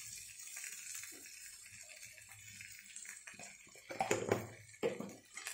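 Chickpeas frying in a kadai with a faint steady sizzle, then a few short knocks and scrapes of the spatula against the pan from about four seconds in as the chickpeas are stirred.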